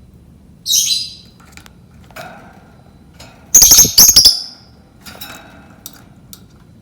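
Lovebird calling: a shrill squawk about a second in, a louder run of harsh, high calls in the middle, then softer short chirps near the end.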